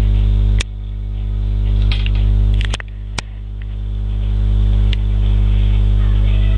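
Loud, steady electrical mains hum in the recording, broken by several sharp clicks. After the first clicks the hum drops sharply and then slowly swells back up.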